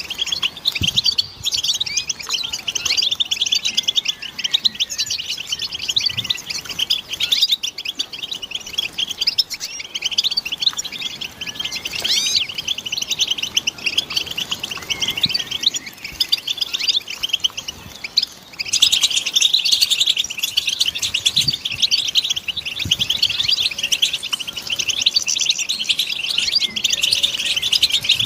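European goldfinches twittering together in a dense, rapid stream of high chirps and calls: the excited group twitter used as mating-call stimulation. About 18 seconds in, the chorus abruptly gets louder and denser.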